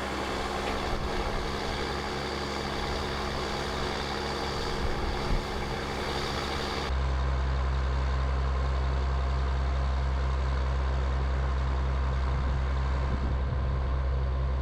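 Truck engine running steadily with a low, even hum, the sound shifting abruptly to a deeper, stronger hum about seven seconds in.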